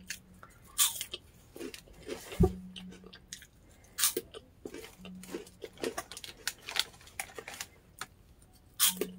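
Chester's Hot Fries being bitten and chewed close to the microphone: irregular crisp crunches, with a louder low thump about two and a half seconds in.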